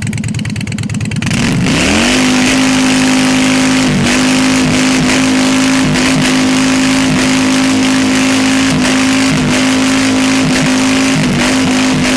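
Motorcycle engine revved hard about a second in and then held at high revs, its pitch dipping briefly again and again as the throttle is worked. The bike is being revved to shoot a sustained flame from its exhaust pipes.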